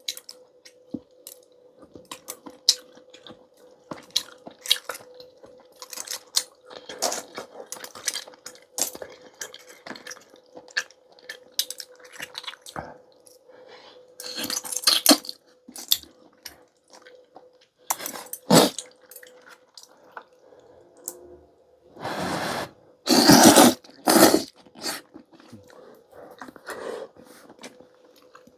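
Close-miked eating of clam noodle soup: utensils clicking against the bowl again and again, with chewing and a few longer, louder slurps of noodles or broth, the loudest about two-thirds of the way through. A faint steady hum sits underneath.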